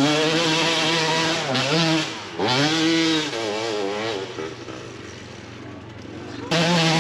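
Dirt bike engine revving hard, its pitch rising and falling as the throttle is worked. It eases off a little past the middle, then comes back loud near the end.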